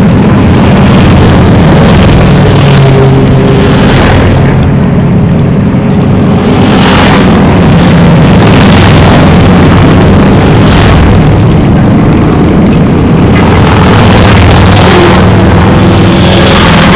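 Motorcycles riding past in a steady stream, their engines running loud, one bike after another swelling up as it passes.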